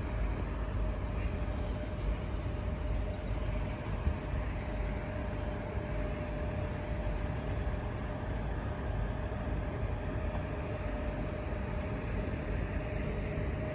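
Ship's machinery running steadily: a broad, even hum with a constant mid-pitched whine on top.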